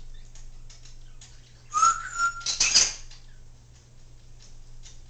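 Congo African grey parrot giving a short whistle that rises and then holds, followed straight away by a few harsh, raspy calls, all within about a second, starting about two seconds in.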